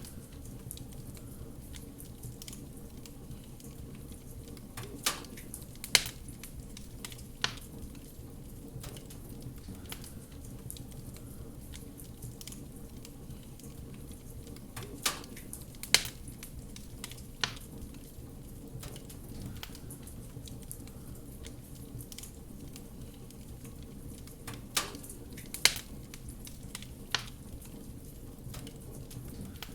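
Wood fire burning in a fireplace: a steady low rumble with light crackling throughout, and louder sharp pops that come in three clusters of three.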